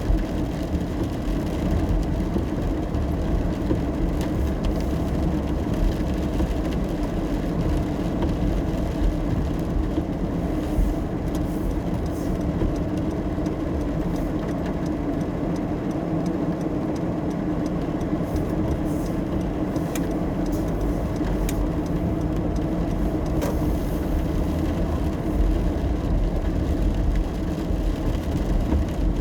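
Steady road and engine noise heard from inside a moving car driving in the rain, a continuous low rumble with a few faint ticks scattered through it.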